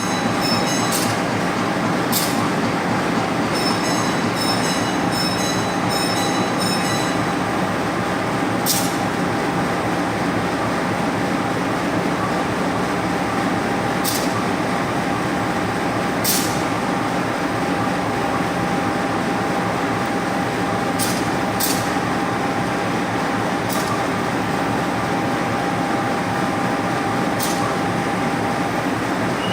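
Passenger train pulling out of a station: a steady, loud rumble of the carriages rolling on the rails, with a held tone running through it. Sharp high clicks come at irregular moments, and a quick run of high ticks comes a few seconds in.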